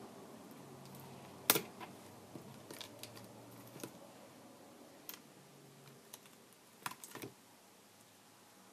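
Scattered light clicks and taps of small hand tools and tablet parts being handled, with one sharp click about a second and a half in and a quick pair near the end. A faint low hum fades out partway through.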